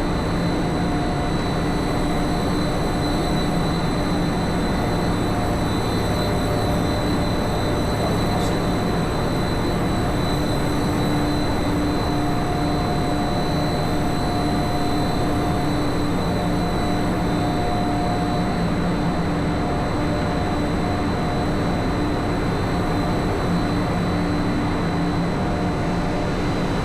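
Shuttle tanker engine-room machinery running: a steady, loud din of noise with several constant hums and a high whine layered over it.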